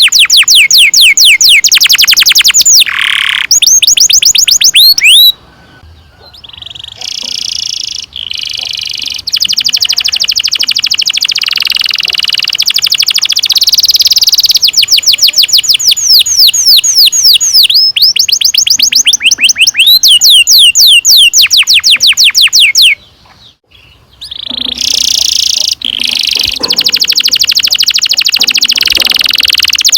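Domestic canary singing long rolling trills of very rapid, repeated sweeping notes, broken by two short pauses, one about five seconds in and one near the end.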